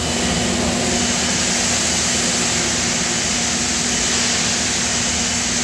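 Steady industrial machinery noise: a constant low hum with a loud, even hiss over it, unchanging throughout.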